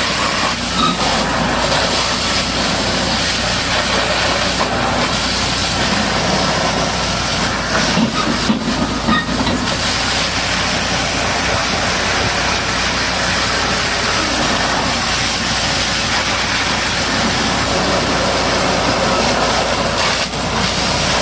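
High-pressure water jet spraying steadily, a loud unbroken hiss, as the heavy machine is washed down.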